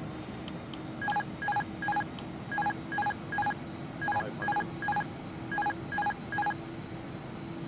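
Airbus A380 cockpit aural alert: short electronic beeps in four groups of three, the beeps within a group about 0.4 s apart. A steady cockpit air noise with a constant low hum runs underneath, and a few sharp clicks come in the first two seconds.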